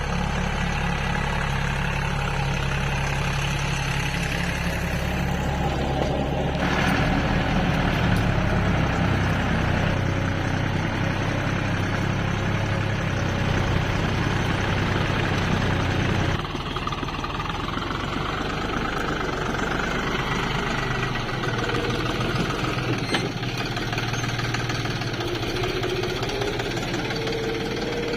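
Deutz-Fahr tractor's diesel engine running steadily. It gets louder about six seconds in and drops back suddenly about sixteen seconds in.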